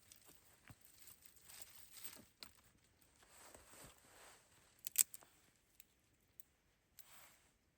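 Irregular rustling and crunching, with one sharp snap about five seconds in and a few faint clicks after it.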